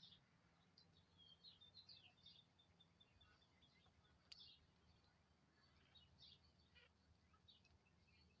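Faint high-pitched chirps and twitters of small songbirds, a quick run of short notes in the first few seconds and scattered calls after, with one sharp click about four seconds in over a low steady hum.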